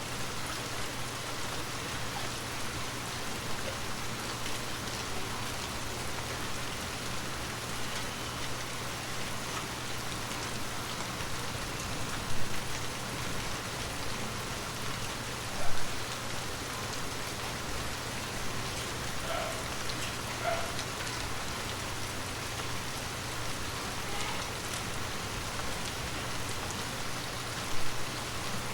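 Heavy rain falling steadily, a dense even hiss of drops. Three louder single hits stand out, about 12, 16 and 28 seconds in.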